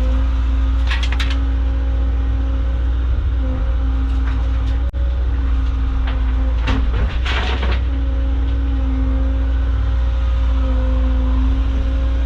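Caterpillar excavator's diesel engine running steadily with a steady whine over a deep rumble, while digging. A few short clanks and scrapes break in, the loudest about seven seconds in.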